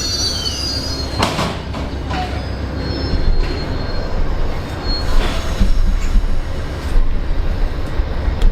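Amtrak passenger train rolling slowly through the station: a steady rumble of wheels on rail, a faint wheel squeal dying away at the start, and sharp clanks about a second in and about five seconds in.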